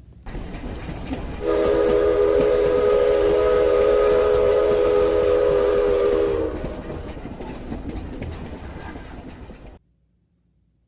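Train sound effect: a rumbling train with one long chord horn blast of about five seconds. After the blast the rumble fades, then cuts off abruptly near the end.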